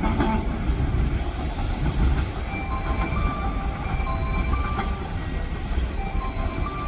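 Train running through a station: a steady low rumble of wheels on rails, joined from about two and a half seconds in by short, high-pitched squeals.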